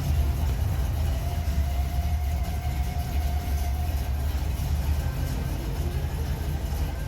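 Car engine running steadily with a low, even rumble as the car is moved.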